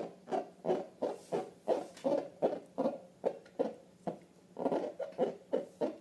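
Rubber balloons and slime being squeezed by hand: rapid short squeaky squelches, about three a second, with a brief pause a little past the middle.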